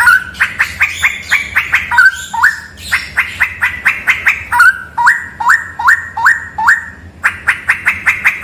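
Straw-headed bulbul (cucak rawa) singing: fast trains of short clipped notes broken by loud upward-slurred notes, with no pause.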